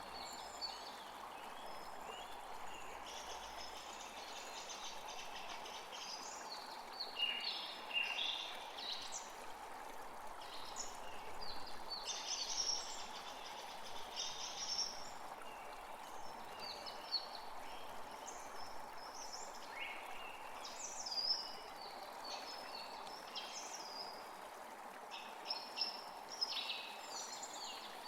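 Several small birds chirping and trilling in quick, short phrases, on and off throughout, over a steady background hiss.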